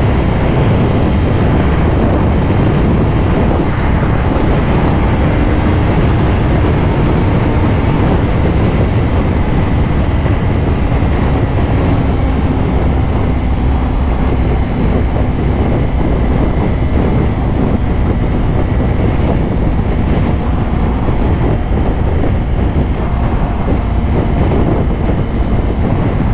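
Heavy wind rushing over the helmet microphone of a rider on a 2024 Kawasaki Ninja 500, loud and unbroken. The bike's parallel-twin engine drones faintly underneath at a steady pitch.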